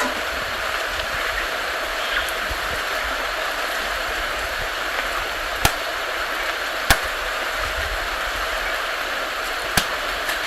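Steady outdoor hiss with three short, sharp snaps, about halfway, a second later and near the end, most likely guava stems breaking as the fruit is picked.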